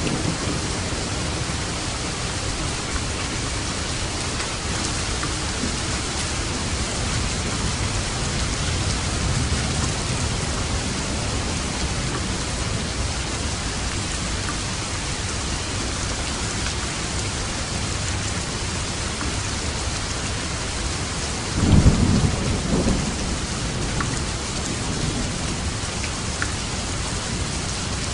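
Steady rain falling, with a short clap of thunder about three-quarters of the way through that rumbles for a second or two.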